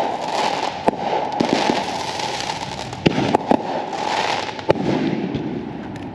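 Consumer fireworks going off: a dense crackling hiss with several sharp bangs, three in quick succession a little after three seconds in. The sound dies down near the end.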